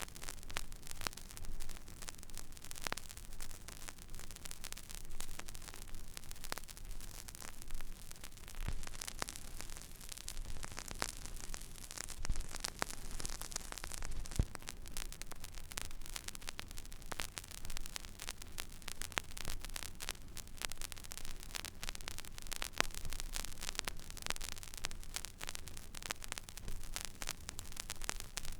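Stylus tracking an empty vinyl record groove: steady surface hiss dense with small crackles and occasional sharper pops, over a low hum.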